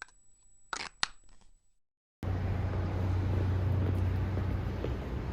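A few soft knocks, then a brief dead silence, then a steady low hum with an even hiss over it.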